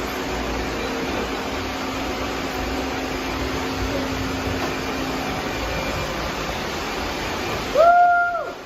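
Several robot vacuums running together with a steady whir. Near the end a loud electronic tone slides up, holds for under a second and slides back down, and the whir then drops away.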